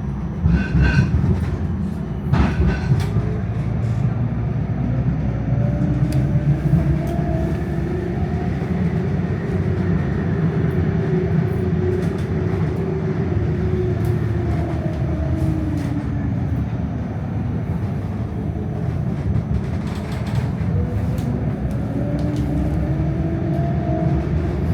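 Melbourne electric tram running, heard from on board: a steady low rumble of wheels on rails, with the electric motor whine rising in pitch as it speeds up and falling as it slows, then rising again near the end. A few sharp clicks and knocks cut through, near the start and about twenty seconds in.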